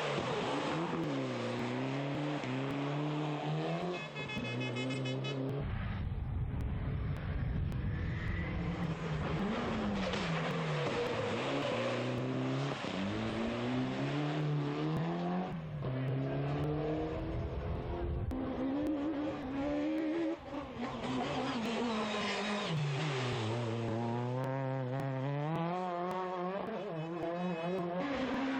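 Rally cars' engines revving hard and climbing through gears, the pitch falling back sharply on gear changes and on lifting off for corners, with loud tyre and road noise as they pass close by.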